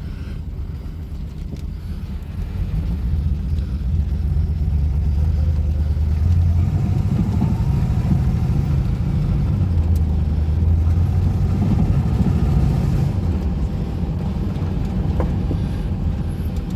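1967 Ford Thunderbird's 390 V8 with a four-barrel Edelbrock carburettor running as the car drives, growing louder about two seconds in as it accelerates, then easing off slightly near the end.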